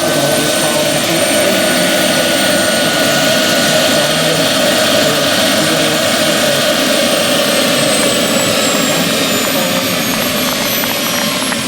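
Turbine-powered RC scale model helicopter flying, its steady rotor and engine noise topped by a high turbine whistle. The whistle drops slowly in pitch over the last few seconds.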